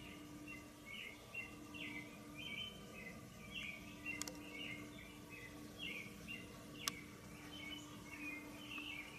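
Faint, continuous bird chirping over a steady low hum, with two sharp clicks, one about four seconds in and one about seven seconds in. No air horn sounds.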